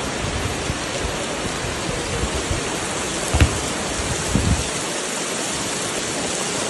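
Steady rain falling, an even hiss throughout. Two short dull thumps come about halfway through.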